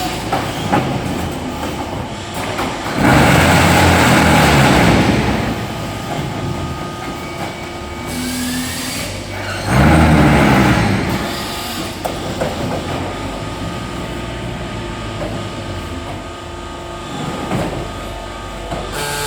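Zenith 940SC mobile concrete block machine running steadily, with two loud droning spells of a couple of seconds and about a second, some seven seconds apart. These are the machine's compaction vibration strokes as it moulds blocks.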